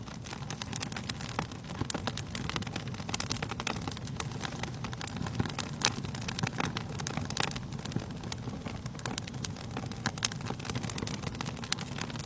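Wood fire crackling, with irregular sharp pops, a few louder than the rest, over a steady low rumble.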